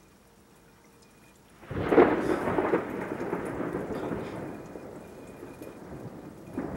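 Thunder: a sudden crack about two seconds in, followed by rumbling that slowly fades away.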